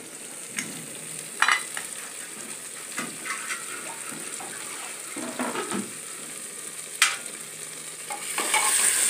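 Mutton curry sizzling in an open pressure cooker while a steel ladle stirs and scrapes it, with a few sharp clicks of metal on the pot. The masala is drying out and starting to catch on the bottom, needing water; the sizzle grows louder near the end.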